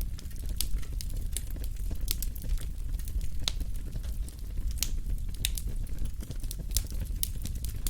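Wood fire burning in a fireplace: a steady low rumble of flame with frequent sharp crackles and pops scattered at irregular intervals.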